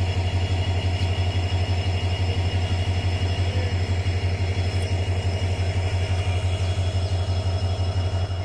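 Express train running, heard from on board: a heavy, low rumble with a fast flutter, which drops away abruptly at the very end.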